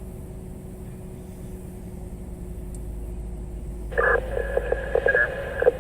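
Steady low rumble of a vehicle, heard from inside. About four seconds in, a police radio gives a short burst of garbled transmission with a steady high tone through it.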